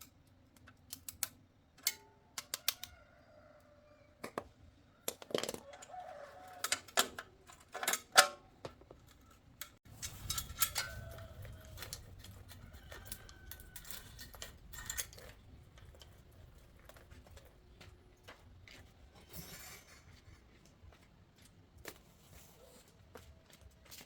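Metal hand tools and bicycle parts clinking and tapping at irregular intervals, with the sharpest strikes a few seconds in. About halfway through, a low rumble comes in under lighter clicks.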